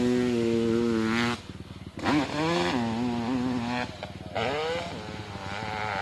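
Hill-climb motorcycle engine running at high revs in three bursts, the throttle backing off briefly about a second and a half in and again about four seconds in, the pitch wavering up and down in the last burst.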